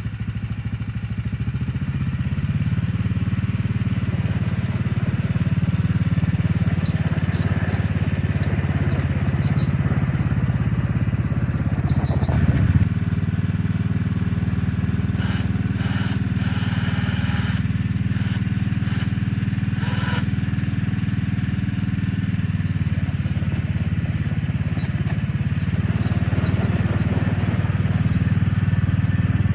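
Small gasoline engine of a homemade snowplow running steadily, picking up a little about two seconds in and again near the end, with a brief thump about thirteen seconds in.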